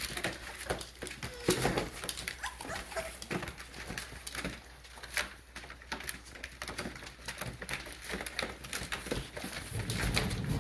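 American bully puppies and their mother dog at leftover puppy food: many small irregular clicks and licking sounds of eating, with a few brief faint whimpers.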